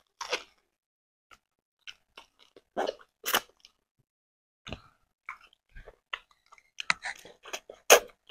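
Close-miked chewing and biting of boiled sweet potato in stew by two people: irregular short mouth clicks and smacks, coming thicker near the end.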